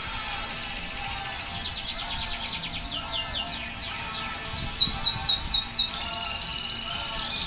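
Birds singing: rapid series of short, high, down-slurred notes, several a second, loudest in a run of about eight notes midway, with other birds chirping in between.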